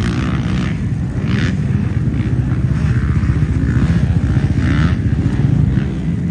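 Motocross bike engines running hard on the track, a loud, dense engine sound that builds slightly and eases off near the end.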